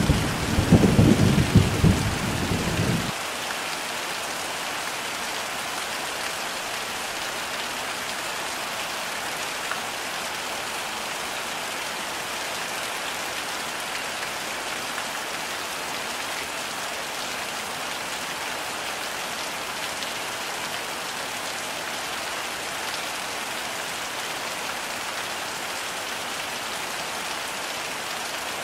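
Heavy rain falling steadily, with a low rumble of thunder over the first three seconds that cuts off suddenly.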